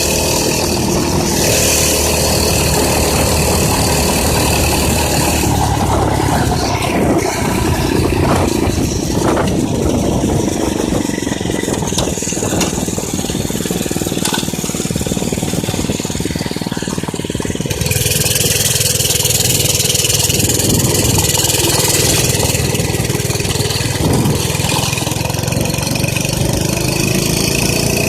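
Minibike's small engine running as it is ridden, its pitch rising and falling with the throttle. About two thirds of the way through the noise turns brighter and a little louder.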